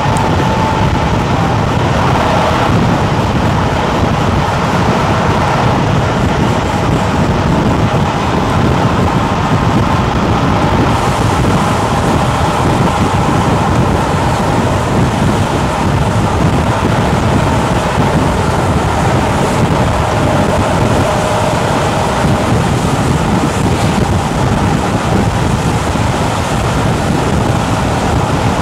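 Steam-hauled train behind A1 Pacific 60163 Tornado running at speed: a loud, steady rumble of the train on the rails, with wind noise on the microphone.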